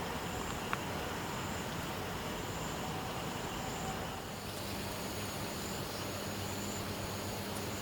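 Steady outdoor background noise with an insect's high, thin trill recurring in short phrases and one faint click about a second in. About four seconds in, the background changes and a low hum comes in.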